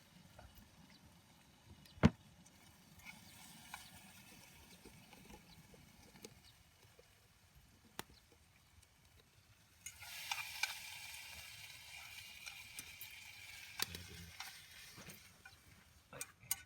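A sharp knock about two seconds in, then from about ten seconds in several seconds of hissing sizzle from cooking over a campfire fire pit.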